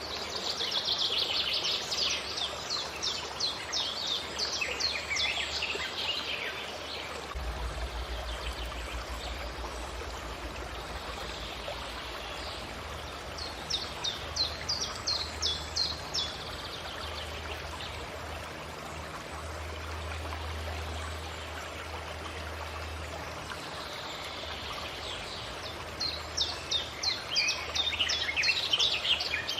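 A songbird singing in three bouts of rapid repeated high chirps, over the steady rush of a forest stream.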